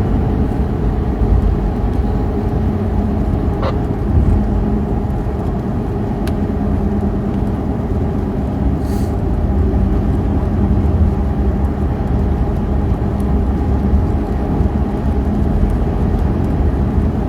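Steady low rumble of road and engine noise heard inside a moving car's cabin, with a faint ticks here and there and a brief hiss about halfway through.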